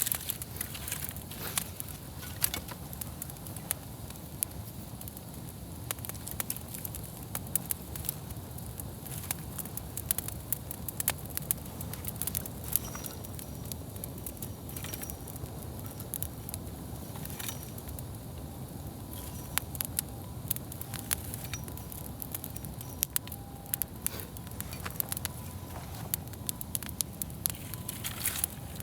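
Wood campfire crackling, with frequent sharp pops and snaps over a steady low rumble of burning.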